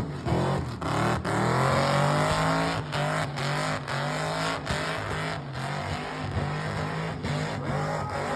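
Car engine held at high revs during a burnout, the pitch repeatedly sagging and climbing back up, with brief sharp dips in the revs throughout.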